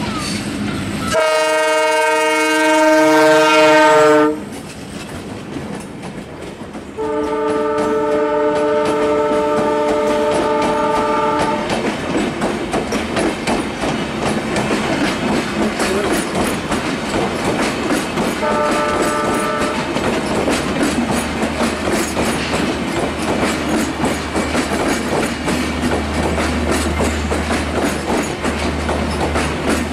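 Diesel locomotive horn sounding three times: a loud long blast, a second long blast, then a short one, over a passenger train rolling slowly past with its coaches' wheels clattering on the rails.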